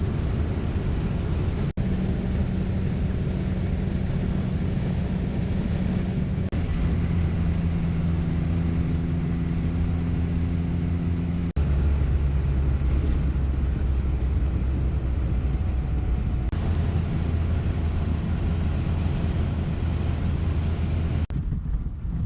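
Morris 1100 S's BMC A-series four-cylinder engine running at road speed, a steady drone with road noise. Several abrupt cuts change its pitch every few seconds.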